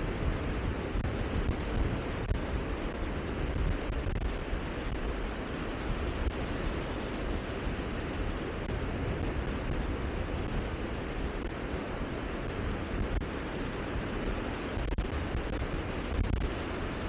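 Steady rushing noise of wind, with low gusty rumble from wind buffeting the microphone.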